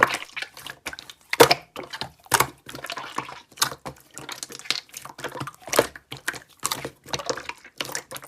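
Slime being squished and pressed by hand, giving irregular wet clicks and pops.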